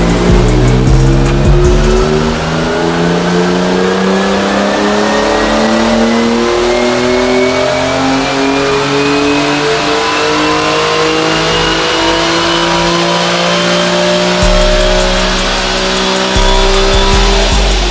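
BMW E46 M3's S54 inline-six breathing through a Dinan exhaust in a long full-throttle dyno pull. The engine note climbs slowly and steadily toward redline, then cuts off near the end.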